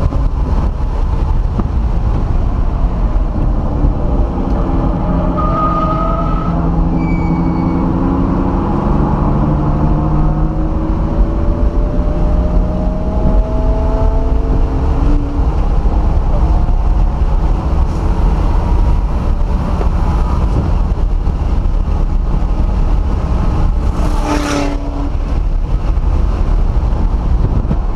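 A 2004 BMW 330i ZHP's 3.0-litre straight-six, heard from inside the cabin on track, its note climbing steadily as the car accelerates, over a heavy rumble of road and wind noise. There is a brief burst of noise near the end.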